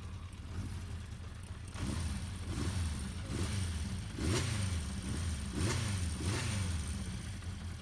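A 1976 Honda CB400/4 Super Sport's air-cooled inline-four engine idling, with about six quick throttle blips from about two seconds in, each rising and falling back to idle.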